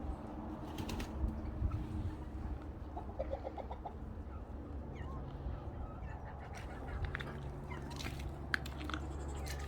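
Chickens clucking, with a quick run of clucks about three seconds in and scattered short sounds later, over a steady low rumble.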